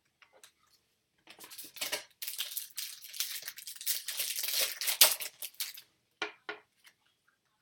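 The foil wrapper of a trading card pack is torn open and crinkled for a few seconds, followed by a few light clicks and taps as the cards are handled.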